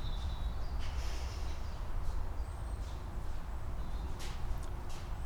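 Wild birds chirping and calling in short, high notes over a steady low rumble.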